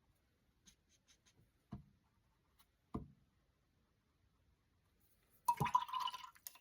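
Quiet sounds of acrylic painting by hand: a few faint ticks about a second in and two soft taps of the brush or painting tools. Near the end comes a louder, brief clatter with a short ringing tone in it.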